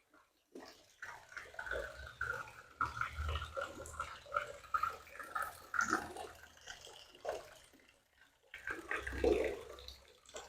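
Fountain water splashing and trickling, uneven, with faint voices in the background.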